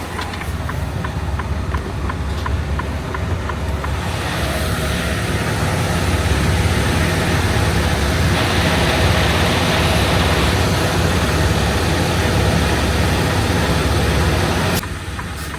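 Semi-truck diesel engine running with a steady low rumble. A light, even ticking comes about three times a second in the first few seconds. The engine grows louder about four seconds in and drops off suddenly near the end.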